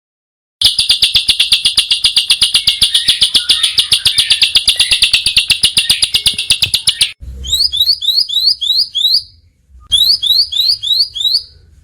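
Small songbird repeating a harsh, high note very fast, more than ten times a second, for about six seconds. Then come two short runs of quick rising chirps, about four a second, with a brief pause between them.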